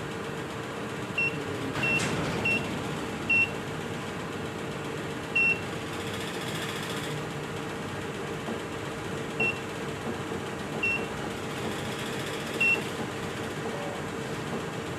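Milling machine digital readout (DRO) keypad beeping as its keys are pressed: about eight short, identical high beeps at uneven intervals, over a steady background hum.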